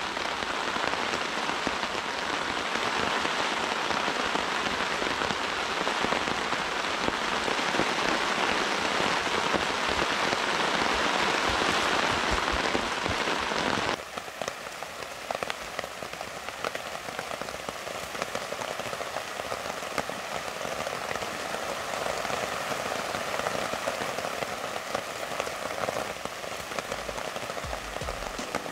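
Heavy rain falling steadily as a dense hiss. About halfway through it changes suddenly to a quieter, lighter rain in which many separate drops can be heard ticking.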